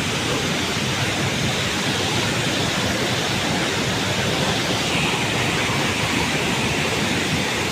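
Steady, even rush of a waterfall in full flow.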